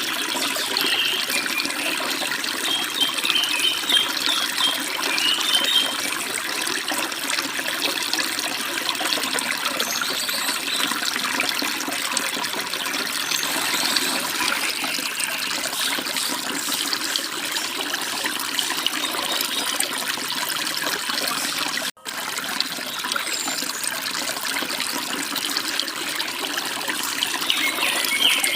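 Forest stream rushing and babbling steadily over rocks, with a few short bird chirps in the first few seconds and again near the end. The water sound breaks off for a split second about three quarters of the way through.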